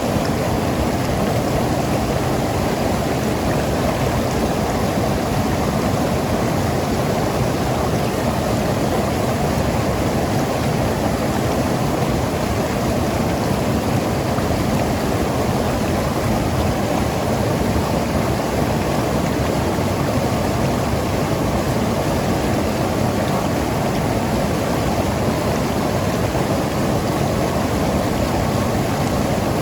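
Mountain river flowing and gurgling over rocks, a steady rushing of water with no breaks.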